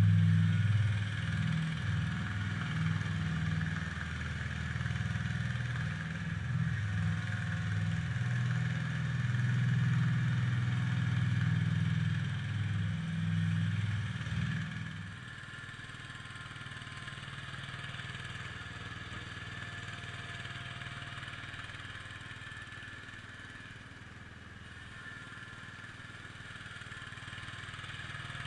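IH Cub Cadet 147 garden tractor's single-cylinder engine running steadily. It is loud for the first half, then drops sharply in level about halfway through and keeps running more quietly.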